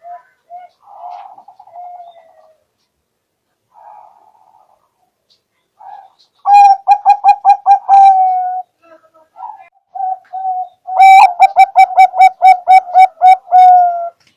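Zebra dove (perkutut) cooing. A few soft coos come first, then two loud phrases of rapid staccato coos, one about halfway in and one near the end, each closing on a longer held note.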